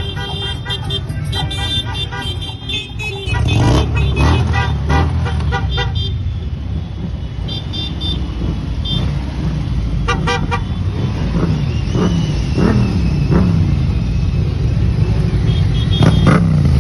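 A parade of motorcycles running and revving past, with horns honking in short repeated toots, clearly about ten seconds in and again near the end.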